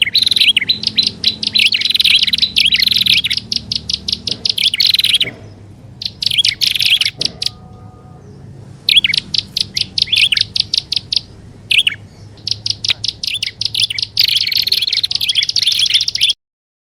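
Prinia (prenjak) lure-call recording: runs of rapid, evenly repeated high chipping notes, broken by two short pauses, that cut off suddenly near the end.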